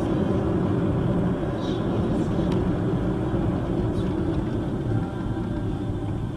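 Steady vehicle driving rumble, easing slightly near the end.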